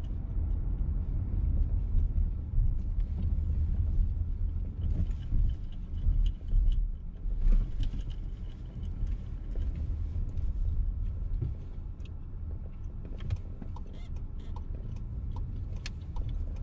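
VW T-Roc petrol car heard from inside the cabin while driving slowly: a steady low rumble of engine and tyres. A faint high squeak comes in from about five to nine seconds, and soft ticks come through near the end.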